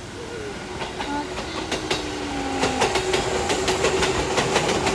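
Fujikyu line electric train passing close by, its wheels clacking over the rail joints. The clicks start about a second and a half in, then come quicker and louder as the train draws level.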